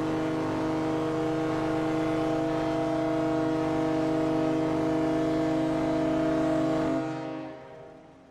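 Ship's horn sounding one long steady blast, cutting off about seven seconds in and dying away in echo.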